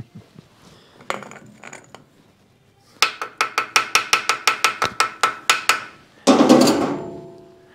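A quick run of about eighteen sharp metallic clicks, some six a second, then a loud ringing metal clank that fades over about a second. This is metal-on-metal work on the Mag-Lite's aluminium tube while freeing its corroded, leaked batteries.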